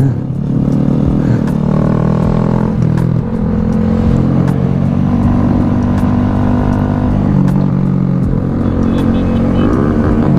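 Honda Grom small-displacement motorcycle engine running under way, its note stepping up and down several times with throttle and gear changes.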